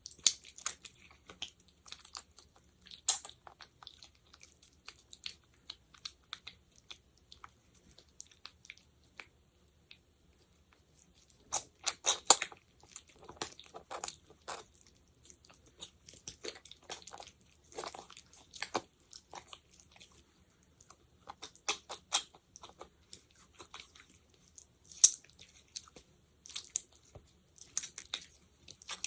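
Sticky, wet clicks and crackles of fingers working a sticky gel close to a microphone, coming in irregular clusters with a short lull about ten seconds in.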